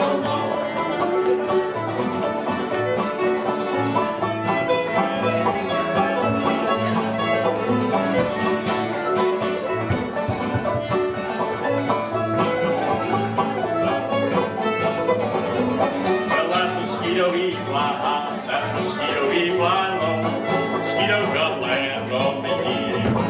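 String band playing an instrumental break in an old-time tune: quick banjo and guitar picking, with a fiddle sliding between notes in the latter half.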